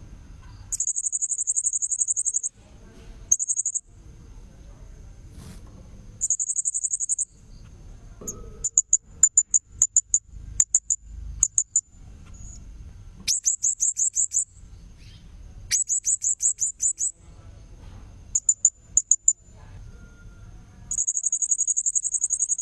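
Blue-crowned hanging parrot (serindit) calling: repeated bursts of high, rapid buzzy trills lasting about a second or two, alternating with runs of quick sharp chirps. The calls are a lure recording meant to draw wild serindits in.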